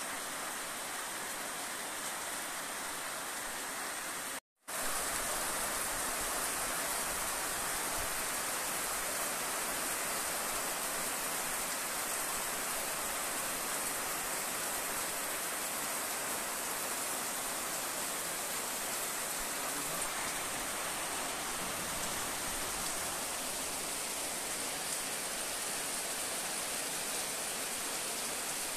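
Heavy rain falling steadily on waterlogged ground and roofs, an even hiss of splashing water. The sound cuts out completely for a split second about four and a half seconds in, then carries on unchanged.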